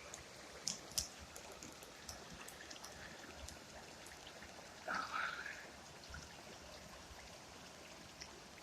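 Mountain creek and small waterfalls running, a faint steady rush of water. A couple of small clicks come in the first second or so, and a brief louder noise comes about five seconds in.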